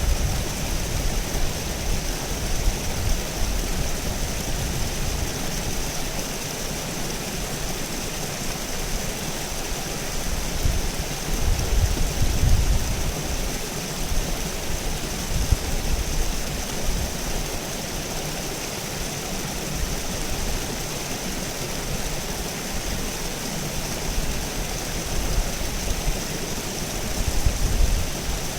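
River water flowing steadily, a continuous rushing noise, with irregular low rumbles that swell and fade, strongest about twelve seconds in and near the end.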